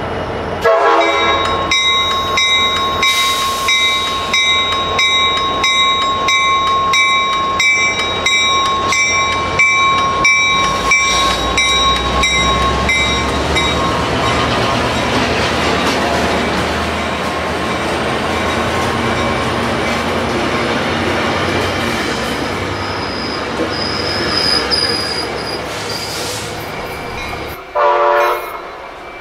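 Passenger train passing close, its locomotive's multi-chime horn held in one long blast for about the first 13 seconds over a fast, regular clatter of wheels on rail. Then comes the rushing rumble of the passing cars, with a faint high wheel squeal. Just before the end a short, loud tonal burst cuts in.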